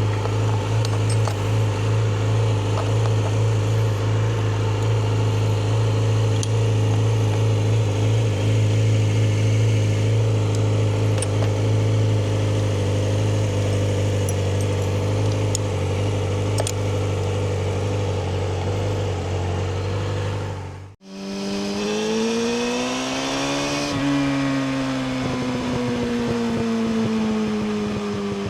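Yamaha R6 inline-four engine through an Akrapovic slip-on exhaust, holding a steady engine speed for about twenty seconds. After a sudden cut, the engine note rises for a few seconds and then falls slowly as the bike eases off.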